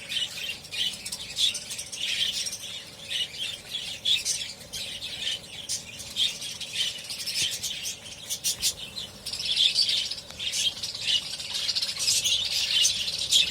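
A group of budgerigars chattering and chirping continuously, with scattered sharp clicks among the calls.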